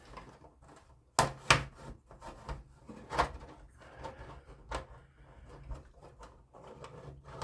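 Handling of HO model track in its plastic bed: light rubbing with scattered small clicks and knocks, two sharper knocks close together about a second in and a few fainter ones later.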